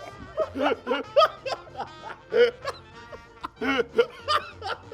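People laughing in short chuckles and snickers over background music.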